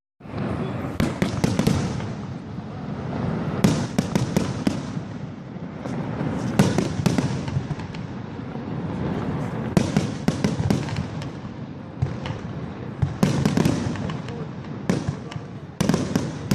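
Fireworks display: a dense string of sharp bangs and crackling, bunched into clusters every few seconds over a continuous low rumble.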